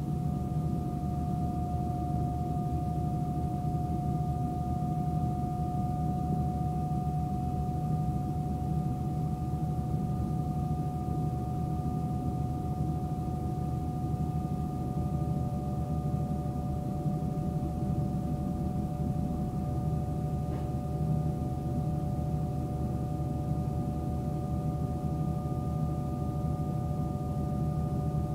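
Interior of a suburban electric train carriage running slowly: a steady rumble with a constant whine of two high tones above it, one setting in just after the start.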